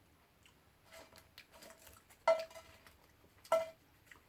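A few light clicks and rattles, then two sharp metallic clinks about a second apart, each ringing briefly: metal utensils knocking against cookware.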